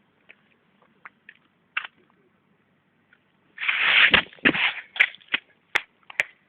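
Scattered raindrops tapping irregularly near the microphone. About three and a half seconds in comes a loud rush of noise lasting about a second, followed by a run of sharper, louder knocks.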